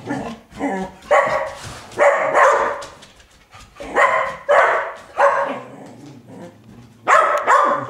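A spaniel barking repeatedly at a talking doll, in short loud barks with a pause of over a second before a last pair near the end.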